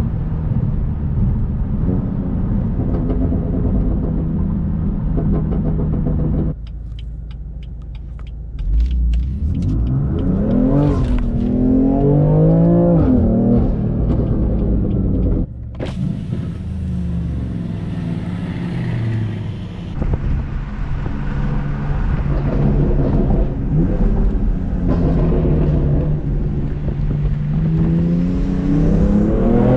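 BMW F80 M3 Competition's twin-turbo 3.0-litre inline-six, tuned to Bootmod3 Stage 1, heard from inside the cabin: running steadily, dropping away about six seconds in, then revving up hard with the pitch rising and breaking at quick upshifts. It settles back to a steady cruise and rises again near the end under acceleration.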